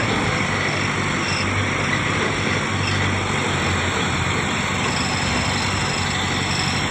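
Tractor diesel engine running hard and steady, a continuous low drone under heavy mechanical noise.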